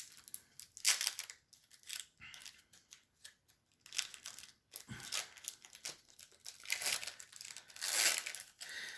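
Trading card pack wrappers and cards being handled: irregular crinkling and tearing-like rustles, louder in spells about a second in, around the middle and near the end.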